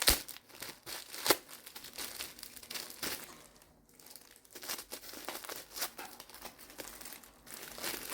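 Packaging crinkling and rustling as an item is unwrapped, with two sharp, louder crackles near the start and a brief lull about halfway through.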